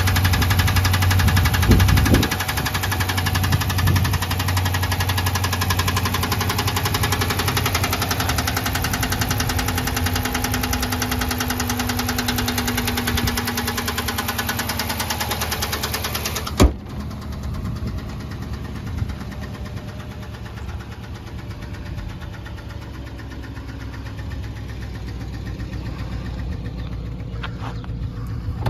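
2018 Dodge Charger engine idling steadily. About two-thirds of the way through a single sharp thud, after which the engine sounds quieter and duller.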